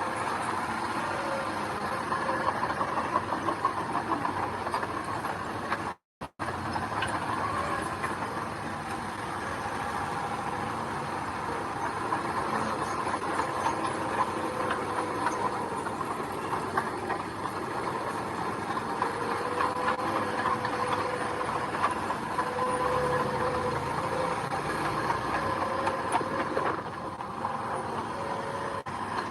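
Diesel engine of heavy construction machinery running steadily, with frequent metallic clanks and rattles. The sound cuts out for a moment about six seconds in.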